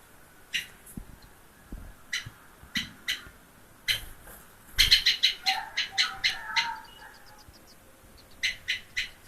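Small bird giving short chirps, first singly and then in a quick run of about a dozen around the middle, followed by a faint high trill and three more chirps near the end.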